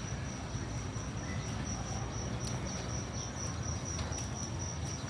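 A steady, high, unbroken insect trill, of a cricket kind, over a constant low rumble of wind and city noise.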